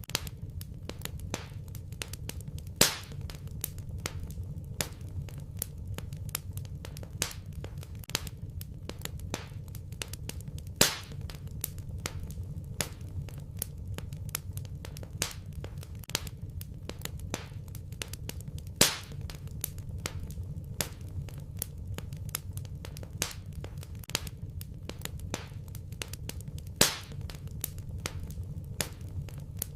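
Wood fire in a fireplace crackling: many small snaps over a low steady rumble of flames, with four louder pops evenly spaced about eight seconds apart.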